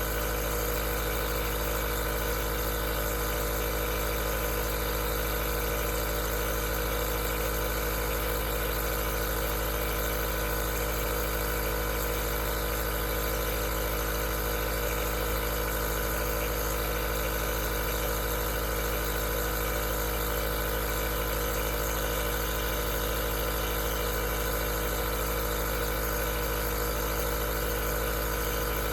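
Aerosol nebulizer's compressor running: a steady, unchanging hum with hiss.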